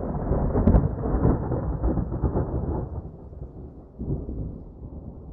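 A deep, noisy rumble, loud for the first three seconds and then dying away, with a couple of faint high clicks near the start.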